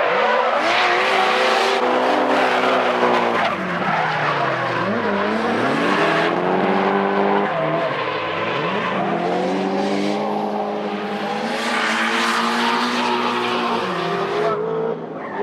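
Drift cars at full throttle in a tandem battle, engines revving high and bouncing up and down, with the pitch dropping sharply and climbing again twice, over the continuous screech of sliding tyres.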